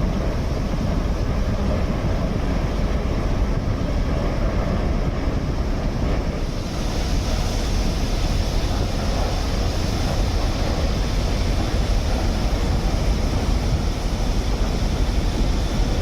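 Steady wind and sea noise aboard a ship, with heavy wind rumble on the microphone; about six and a half seconds in, the hiss grows brighter.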